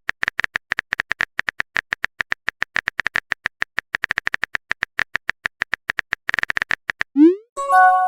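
Rapid, evenly spaced keyboard typing-sound clicks, about eight a second, stopping about seven seconds in. Then a quick rising bloop and a short tonal chime of a chat message arriving.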